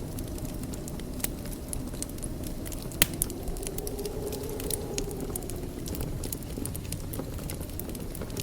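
Wood fire burning in a fireplace, a steady low rumble of flames with frequent sharp crackles and pops, one louder crack about three seconds in.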